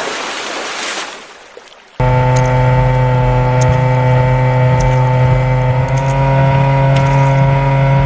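A rushing noise fades away over the first two seconds. Then a vehicle engine hum cuts in abruptly at about two seconds and runs at an even, unchanging pitch.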